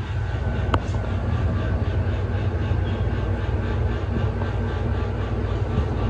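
Steady low rumble of a running vehicle, with a single sharp click just under a second in.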